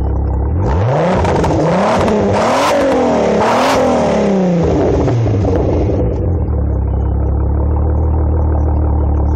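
12-valve VR6 turbo engine through a full 3-inch exhaust, blipped from idle: it revs up quickly, peaks twice, and falls back to a steady idle, with a rushing hiss over the revs.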